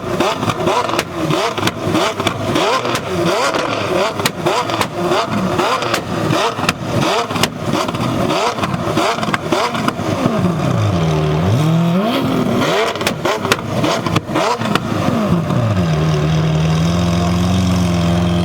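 Car engines revved hard again and again in quick blips, with sharp exhaust pops and crackles. Near the end one engine is taken through two long revs, down and back up, then held at a steady high rpm.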